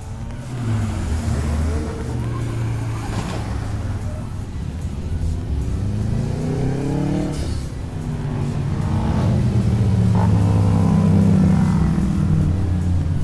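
Car engine revving, its pitch climbing and falling twice, then running at a steady higher speed and getting louder in the second half.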